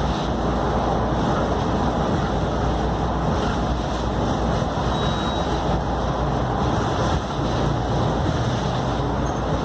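Scania K310UD double-decker bus running steadily under way, its engine and road noise a continuous low rumble.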